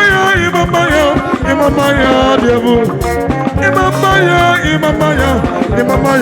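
Live band playing Igbo gospel music with a steady drum beat and melodic lead lines.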